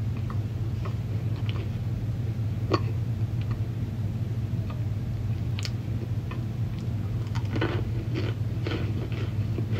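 Mouth crunching and chewing bites of dry, chalky cornstarch chunks: scattered single crisp crunches, then a run of several crunches about eight seconds in. A steady low hum runs underneath.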